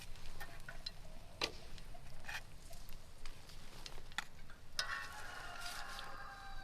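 Camp cooking: scattered light clicks and taps of a utensil against a pan over a faint sizzle. About five seconds in, a brief high ringing tone joins for the last two seconds.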